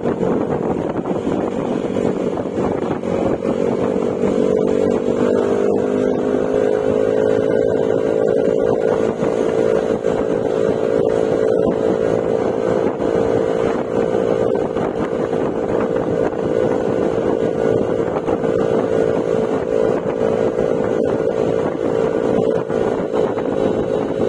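Yamaha Mio Gravis scooter's 125 cc single-cylinder engine running through an aftermarket Akrapovic exhaust with silencer while riding. The engine note rises over the first few seconds and then holds steady at cruising speed, with wind rushing over the microphone.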